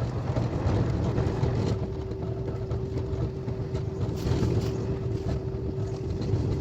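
KTX high-speed train running, heard from inside the passenger cabin: a steady low rumble with a faint steady hum over it.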